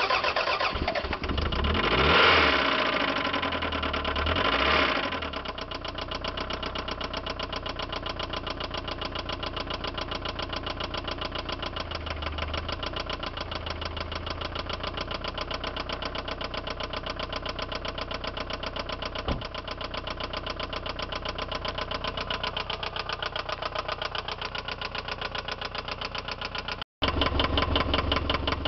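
1993 Toyota MR2 Turbo's 3S-GTE turbocharged four-cylinder engine, blipped twice near the start and then idling with a rapid, even, heavy rod knock. The knock is the sign of a failed connecting-rod bearing: it began as a light knock under boost and was driven on until the engine was ruined. Near the end the sound breaks off briefly and comes back louder.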